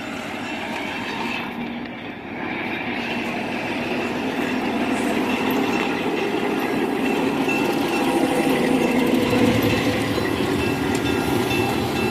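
Diesel switcher locomotive and caboose rolling slowly past, the engine running and the steel wheels clicking over the rails. The engine gets louder in the second half as the locomotive comes by.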